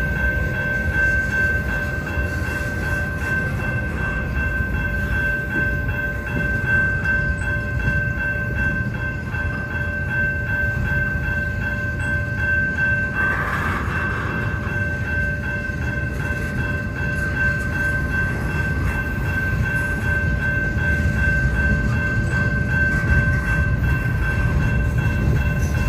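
BNSF double-stack intermodal freight train rolling past: a steady low rumble of wheels on rail. Over it runs a steady high-pitched tone, with a brief louder burst of higher sound about halfway through.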